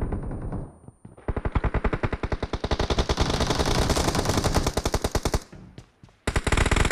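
Automatic weapon fire from a shooter video game: a long rapid burst of evenly spaced shots lasting about four seconds, then another burst starting near the end.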